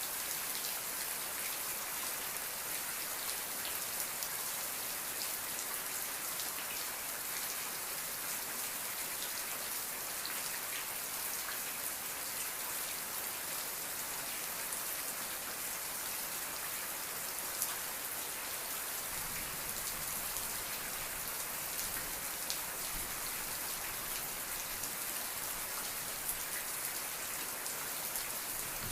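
Steady rain falling on a surface: an even hiss with scattered individual drop ticks. A faint low rumble joins about two-thirds of the way through.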